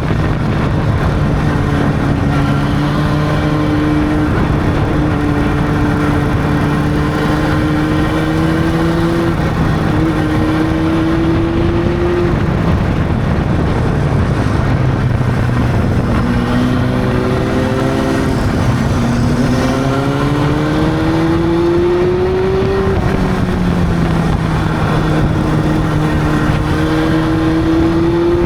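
Honda CB600's inline-four engine running under way, revs climbing gradually through the gears with a drop in pitch at each shift: one drop about a third of the way in, then a steeper climb past the middle and another drop near the three-quarter mark.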